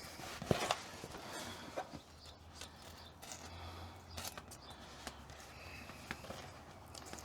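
Handling noises from fitting sound-deadening insulation inside a car body: scattered knocks, clicks and rustling, with one sharp knock about half a second in.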